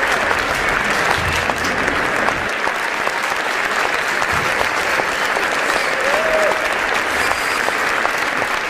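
A large audience applauding steadily, a dense wash of many hands clapping, with a brief shout from the crowd about six seconds in.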